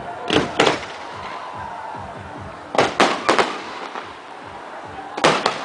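Firecrackers going off in quick sharp bangs, in three clusters: a pair near the start, four around the middle and three near the end. Faint background music runs beneath them.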